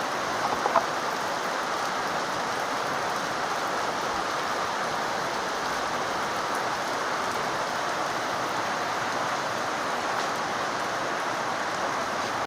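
Steady rain falling hard.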